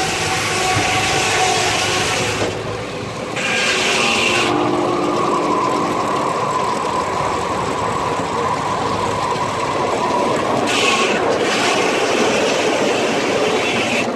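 A steam-driven sawmill, powered by a 1926 Keck Gonnerman steam traction engine, running loudly and steadily. A steady whine comes in about four and a half seconds in and fades about ten seconds in.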